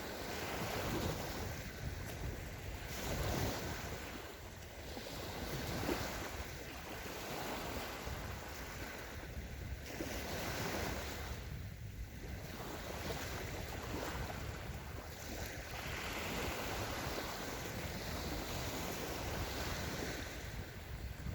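Small sea waves breaking and washing up a sandy shore of the Sea of Azov, swelling and fading every two to three seconds. Wind rumbles on the microphone underneath.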